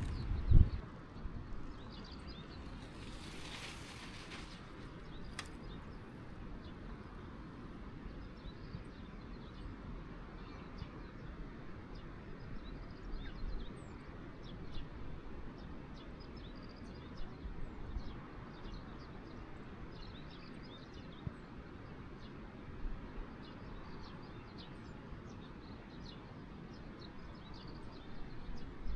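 Quiet outdoor background noise with scattered faint bird chirps, and one short knock just after the start.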